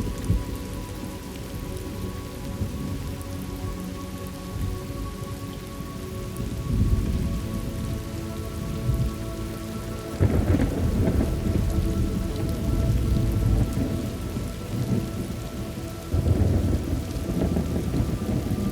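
Steady rain with rolling thunder rumbling low underneath, the thunder swelling about ten seconds in and again near the end.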